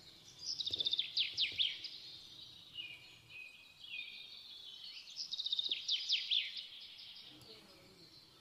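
A small bird singing two phrases about five seconds apart, each a quick trill of high notes followed by a few sharp falling notes.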